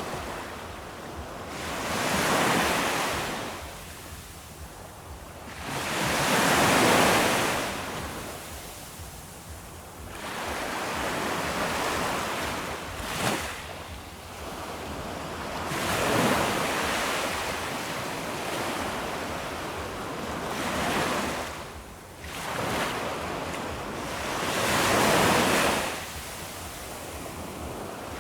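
Ocean surf breaking on a shore: a rushing wash of water that swells up and falls away again, one wave after another every few seconds.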